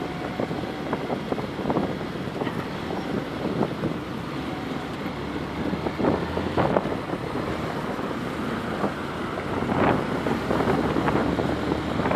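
Outdoor street noise: a steady rush of passing traffic and wind on the microphone, with scattered irregular knocks and clatters.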